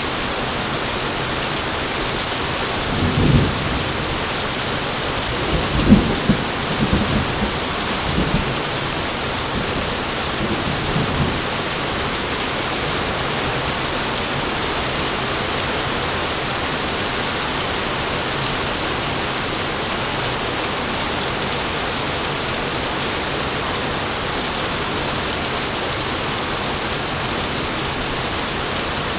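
Heavy rain falling steadily, with thunder rumbling low in several rolls from about three seconds in; the loudest is near six seconds, and it dies away by about eleven seconds.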